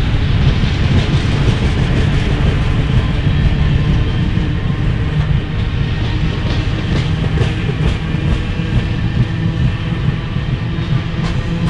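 Canadian Pacific coal train's loaded steel-wheeled coal cars rolling past close by: a steady heavy rumble with a low hum and clickety-clack as the wheels cross rail joints.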